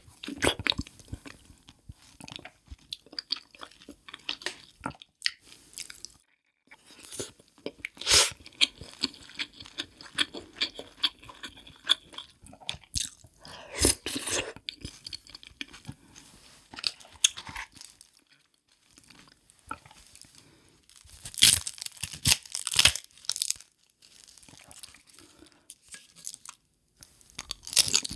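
A person biting and chewing crunchy food, an irregular run of crunches and mouth sounds with a few louder crunching bursts along the way.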